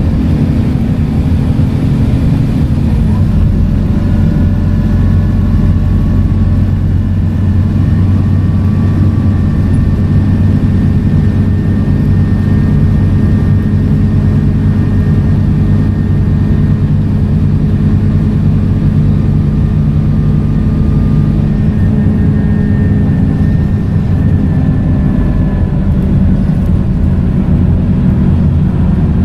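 Scania K230UB single-decker bus running under way: a steady, loud drone from its five-cylinder diesel engine driving a ZF automatic gearbox, with faint higher whines that rise slowly in pitch twice.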